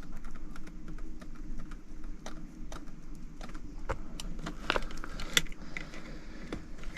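Scattered small metallic clicks and rattles of hands and a tool working thermostat wire onto a zone damper's terminals, the sharpest about five seconds in, over a steady low hum.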